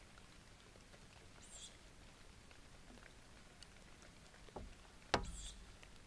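Faint scratching and light knocks on the wooden nest box, then a thump and a sharp knock about five seconds in, followed by a brief scratchy rustle: a tawny owl moving about on the box.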